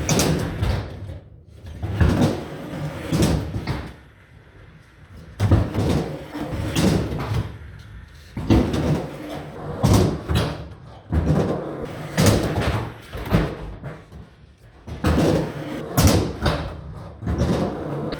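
Skateboard wheels rolling over ramps, broken by loud clacks and slams of the board hitting the surface, landing, popping and knocking against coping, again and again.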